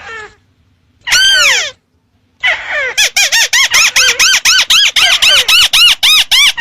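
Crake (burung tikusan) lure call. One long falling, squealing note sounds about a second in, then after a short gap comes a fast, even series of short arched notes, about four a second.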